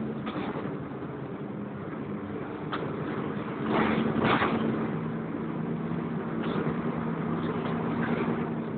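Volvo B10BLE bus's engine and cooling fan droning steadily, heard from inside the bus while under way. A louder burst of noise lasting about a second comes about four seconds in.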